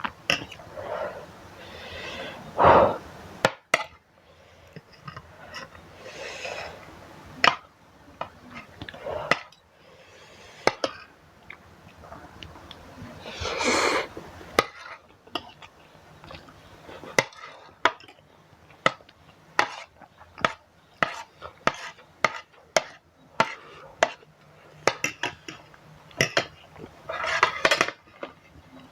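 Metal fork and spoon clinking and scraping against a bowl of instant noodles: many short sharp clinks, coming thicker in the second half, with a few longer eating sounds in between.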